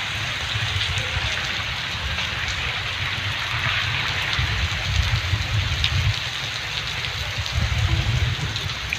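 Heavy rain pouring down in a steady hiss, with a low, uneven rumble underneath.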